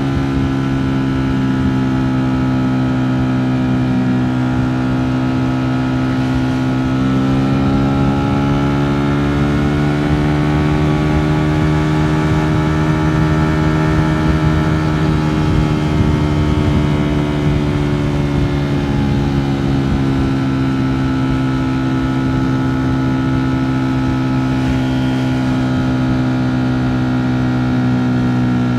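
Ducati Streetfighter V4 S's V4 engine running at a steady cruise, its pitch rising gently for several seconds in the middle and easing back down.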